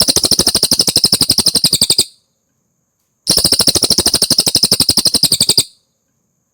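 Cililin bird singing: two fast trills of evenly repeated high notes, about a dozen a second, each lasting a little over two seconds with a pause between. This is a recorded masteran song of the kind used to tutor songbirds.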